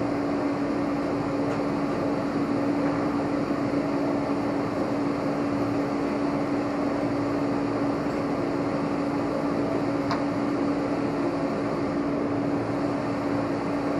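Steady mechanical hum like a running fan or air conditioner, with one constant low tone throughout; a faint click about ten seconds in.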